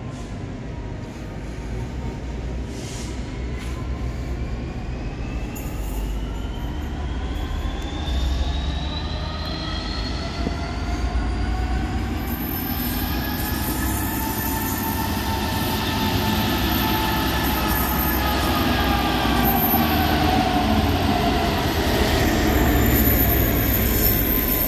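A train moving at the station, with a low rumble and several whining tones that glide up in pitch and then ease back down, growing gradually louder.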